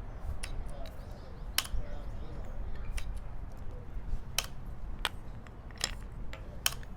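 Chess pieces clacking down onto a board as moves are played quickly, about eight sharp clicks at uneven intervals.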